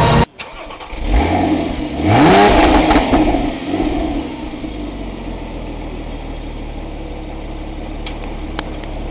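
Porsche Boxster Spyder's 3.4-litre flat-six, heard at the exhaust tips, starting up: it catches about a second in, the revs flare up sharply a second later, then it settles into a steady idle.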